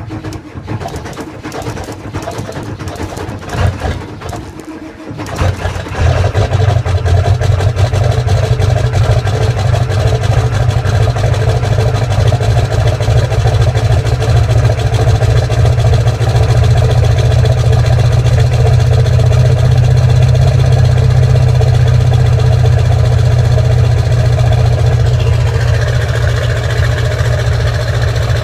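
1997 Ford 7.3 Powerstroke V8 turbo diesel being cranked on a cold start in freezing weather: it stumbles unevenly for about five seconds, then catches and runs steadily with a loud, deep drone. A higher note joins near the end.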